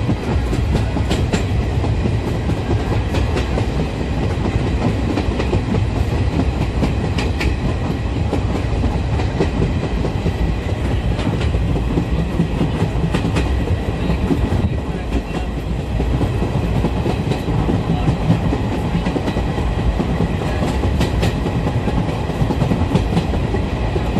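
Local passenger train running at speed, heard from inside the carriage at a window: a steady rumble of wheels on the track with scattered clacks from the rail joints.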